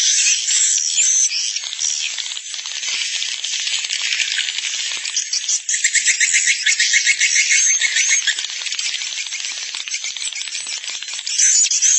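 Edible-nest swiftlets twittering and rattling: a dense, continuous chorus of high chirps and buzzy click trains, with a fast, even rattle about halfway through. It is a swiftlet 'roosting call' lure recording, the kind played to draw swiftlets into a nest house.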